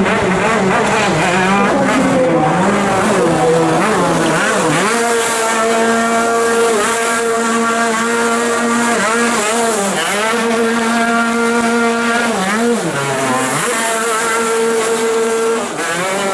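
Car engine revving hard and held at high revs for seconds at a time, dropping briefly and climbing back a few times, with tyre squeal.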